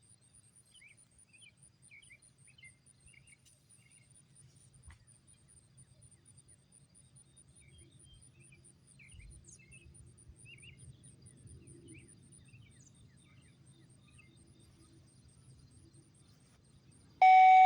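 Faint countryside ambience: an insect, likely a cricket, gives a steady high pulsing trill, with scattered short bird chirps. Near the end a sudden loud electronic tone bursts from a radio scanner.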